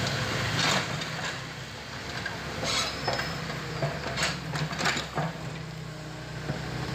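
Excavator engine running steadily, with several short scraping clanks over it.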